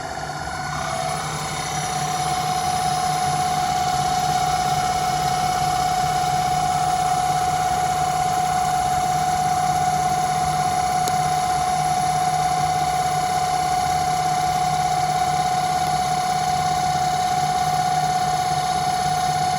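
Home-built CNC lathe running: a steady mechanical whine over a low hum, which steps up slightly in pitch about a second in and then holds.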